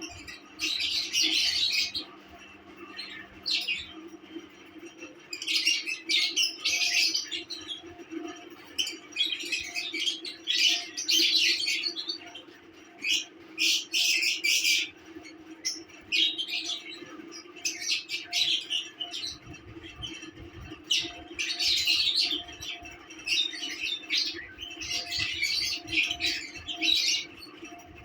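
Lovebirds chirping and chattering in repeated bursts of shrill, rapid calls, with a steady low hum underneath.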